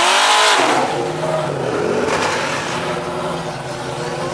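Car engine revved: its pitch climbs and falls back in the first second, loudest there, with a smaller rev a second later, then it runs steadily.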